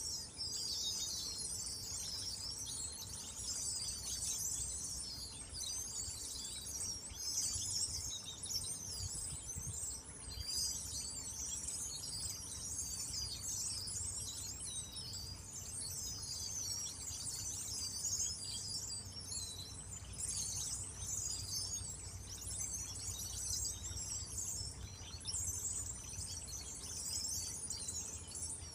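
A flock of many small birds chirping and twittering at once: a dense, continuous high chatter that sounds like a trickling stream.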